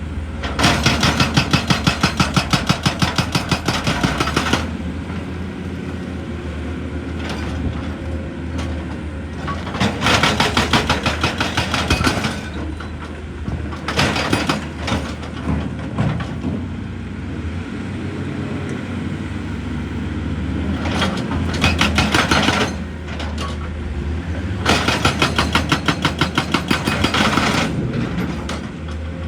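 Excavator-mounted hydraulic rock breaker hammering rock in rapid, evenly spaced blows, in five bursts of one to four seconds, with the excavator's diesel engine running steadily between them.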